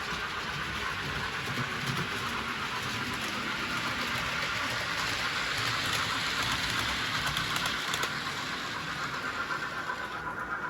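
Model train running along the layout's track: a steady whirring hiss of the small motor and wheels with fine rapid clicking, growing louder through the middle and easing off near the end as it passes.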